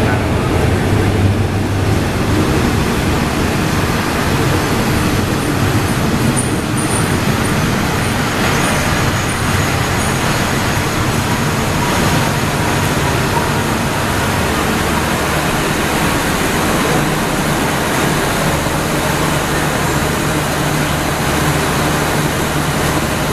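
Diesel train running through the station close to the platform: a loud, steady engine drone with noise across the range, and a faint high ringing tone for a few seconds about five seconds in.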